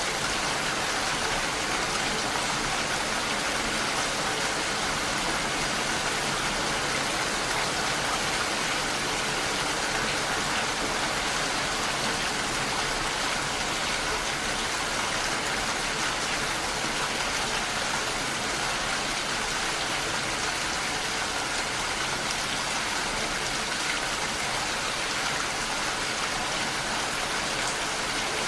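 Steady heavy rainfall, an even unbroken hiss of rain with no distinct drops or changes.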